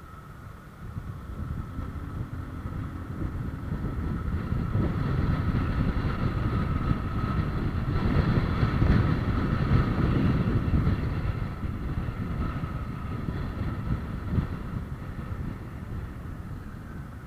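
Vehicle noise with wind on the microphone, a steady rumble with a faint whine above it, growing louder to a peak around the middle and then fading.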